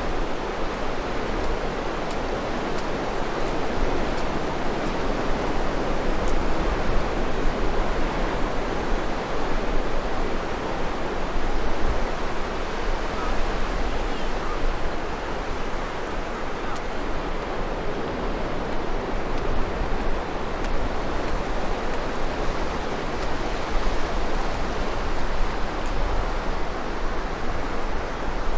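Steady rush of waves, with wind rumbling on the microphone.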